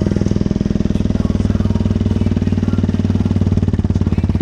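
Exhaust of a WRX 125 motorcycle with an aftermarket CRD exhaust, running at a steady engine speed with a rapid, even firing pulse.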